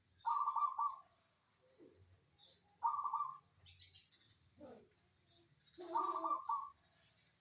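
Zebra dove (perkutut) singing in its rolling cooing phrases, three of them about three seconds apart, with fainter high chirps of other birds in between.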